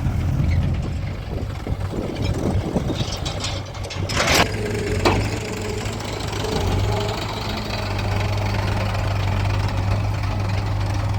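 Heavy diesel engine running steadily, with a sharp metallic clank about four seconds in and a smaller one a second later, followed briefly by a steady mid-pitched whine.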